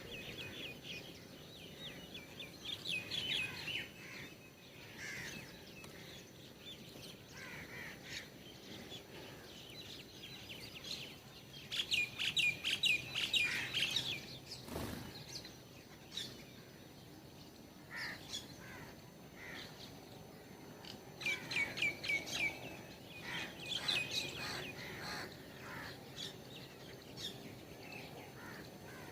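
Small birds chirping in quick rapid runs, several bouts of them with short pauses between, and one sharp knock about halfway through.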